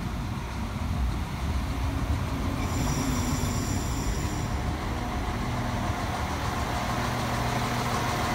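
Irish Rail 22000 Class InterCity Railcar diesel multiple unit rumbling along the platform as it draws in, with a faint high squeal about three seconds in. A steady low engine drone settles in after about five seconds.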